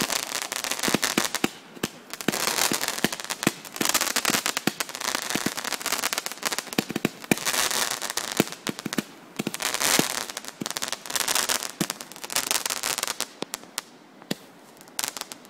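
Fireworks crackling: dense crackle and sharp pops from crackling comets, coming in waves and thinning out to a few scattered pops near the end.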